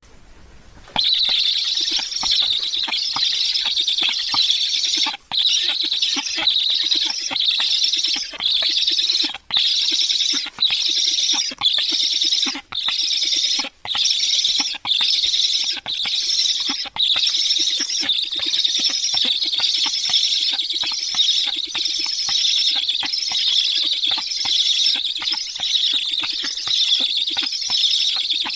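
High-pitched bird calling close to the microphone, near-continuous and broken by brief pauses about once a second, starting about a second in.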